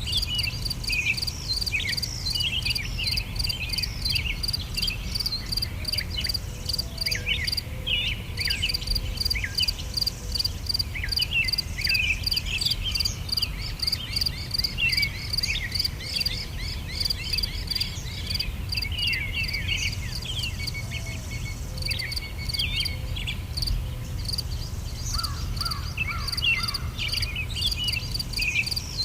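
Outdoor nature sound: insects chirping in a fast, steady pulse, with many birds calling over it in short chirps and falling whistles, over a low rumble.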